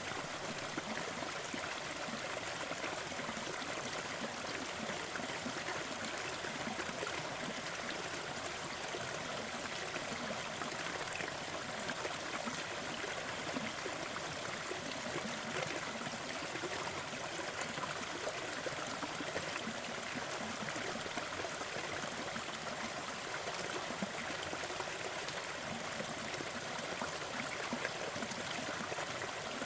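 Waterfall: water falling and rushing steadily, an even hiss that stays unchanged throughout.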